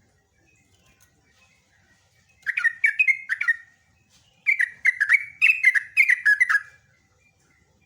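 Yellow-vented bulbul (trucukan) singing: a short burst of quick, bubbling, down-slurred notes about two and a half seconds in, then a longer run of the same notes from about four and a half seconds.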